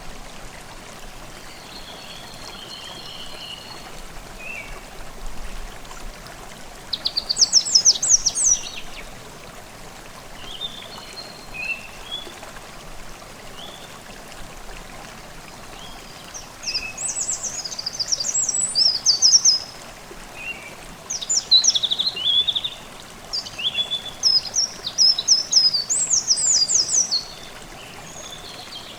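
Forest stream babbling steadily, with songbirds singing over it in quick bursts of high, falling notes: one phrase about a quarter of the way in, then a run of repeated phrases through the second half, with fainter calls between.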